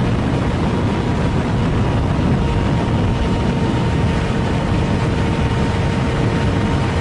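Superbike running flat out at high speed, its engine holding a steady high-revving note under a heavy rush of wind noise.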